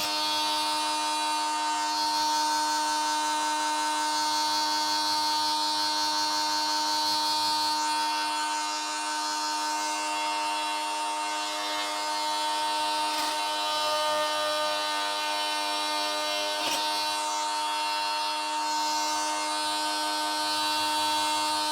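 Small handheld power tool running with a steady, even buzz that holds one pitch throughout, with a couple of faint knocks in the latter half.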